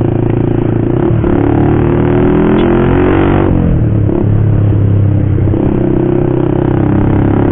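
Motorcycle with an aftermarket racing exhaust riding under way. The engine note climbs as the throttle is opened, drops sharply about three and a half seconds in, then runs steady.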